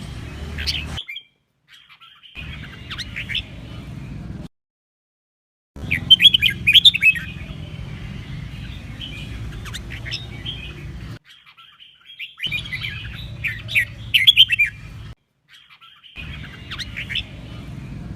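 Red-whiskered bulbul singing, with quick runs of bright whistled and chirping song phrases. The song comes in short stretches broken by abrupt dead-silent gaps, with a low hum under each stretch.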